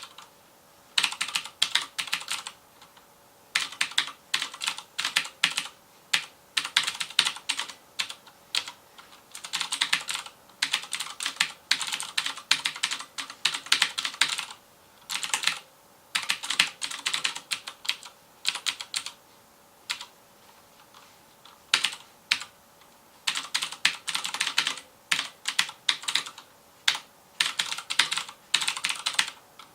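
Typing on a FILCO Majestouch Convertible 2 mechanical keyboard with Cherry MX Blue switches: rapid clicky keystrokes in bursts of a second or two, with short pauses between.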